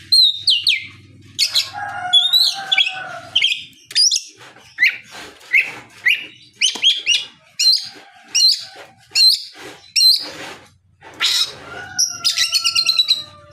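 Oriental magpie-robin (kacer) in full song: a varied run of short, clear whistles and chirps, phrase after phrase, with a quick string of repeated notes near the end.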